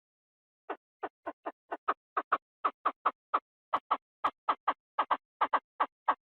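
Chinese francolin calling: a rapid run of short, harsh notes that begins just under a second in and grows louder, settling into paired notes about four or five a second.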